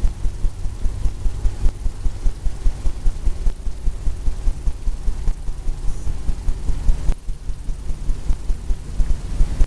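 Paintbrush dabbing and stroking on a stretched canvas: a fast, uneven run of dull low thuds, about four or five a second, with a short pause about seven seconds in.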